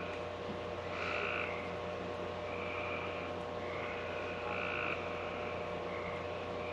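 Frogs calling at night in short repeated trills, about one every second, over the steady hum of a small fan and mini air-conditioner.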